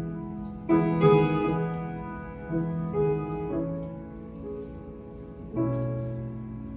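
Solo piano playing slow, sustained chords, each struck and left to ring and fade. The chords fall about a second in, again around three seconds, and once more near the end.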